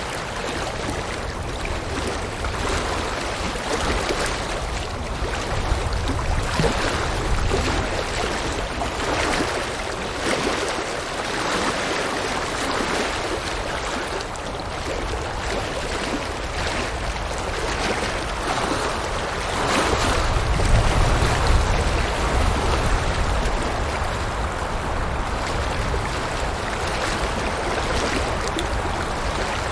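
River water rushing and splashing steadily over rocks, swelling and easing in gentle surges, with a deeper rumble that strengthens about twenty seconds in.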